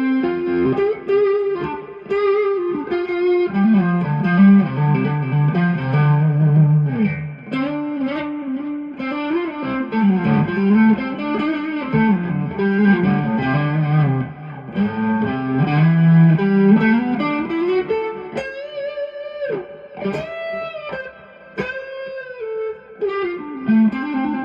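Electric guitar, a Stratocaster, played through a Bluesbreaker-style overdrive stacked into a TS10 Tube Screamer and a Two-Rock tube amp with delay: a bluesy lead line of single notes with string bends, most clearly about 18 to 22 seconds in.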